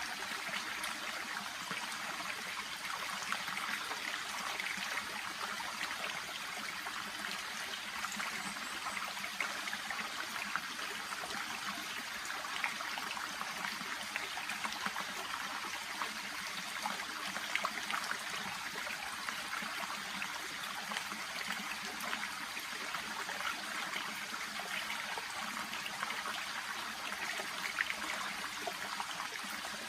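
A shallow brook babbling and trickling steadily over and around water plants.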